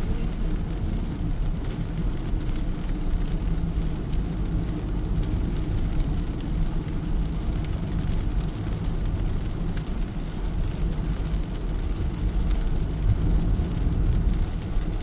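Steady low rumble of a car in motion, with a fainter hiss over it.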